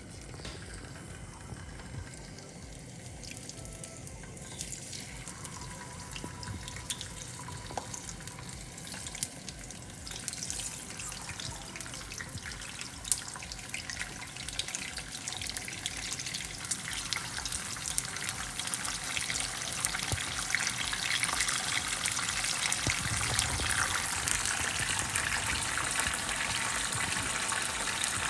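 Hot cooking oil sizzling and crackling in a pan for deep-frying, a dense patter of small pops that grows steadily louder and busier.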